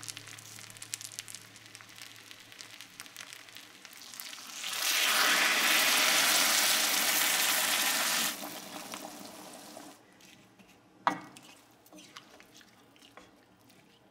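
Fish head, potatoes and rice frying in a stainless steel kadai, crackling faintly as they are stirred. About five seconds in, a loud sizzling hiss sets in as hot water goes into the hot pan, lasts about three and a half seconds, then dies down. A single knock follows near the end.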